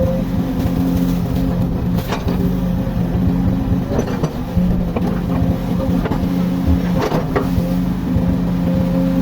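Komatsu excavator's engine running steadily, its hum dropping and returning in steps as the load changes, with a few sharp knocks.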